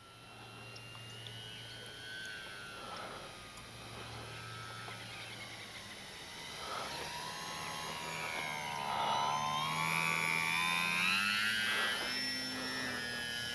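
E-flite Sportix RC plane's electric motor and propeller whining in flight, growing louder as it comes closer, loudest about ten seconds in. The pitch bends up and down as the plane passes and turns.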